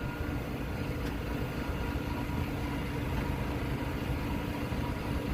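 Semi truck's diesel engine running steadily at low revs, a low rumble with a faint steady whine over it, as the rig is inched along to slide the trailer's tandem axles into place.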